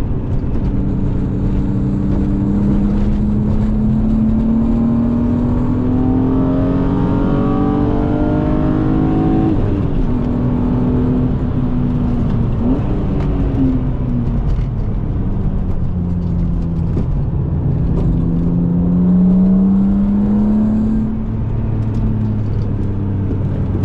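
BMW E36 M3's straight-six engine with aftermarket intake and exhaust, heard from inside the car at track pace. It revs up in a long climb, drops sharply about ten seconds in, sags, then climbs again before easing off near the end.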